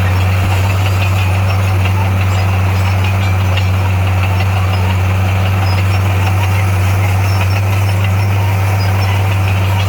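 Heavy diesel engine of earthmoving equipment running at a steady speed, a constant low drone with no change in revs.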